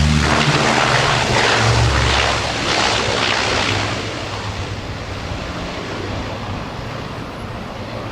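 An airplane's engines going past, loud for the first few seconds, then fading steadily away.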